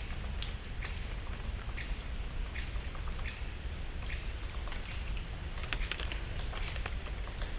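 Dry leaves falling through a still deciduous forest, ticking and pattering onto branches and the leaf litter, with a cluster of sharper ticks about six seconds in. A small bird's short high call note repeats about every three-quarters of a second over a steady low rumble.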